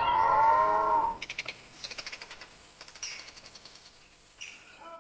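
An African buffalo lows once, a call of about a second that falls slightly in pitch. A run of rapid sharp clicks follows until near the end.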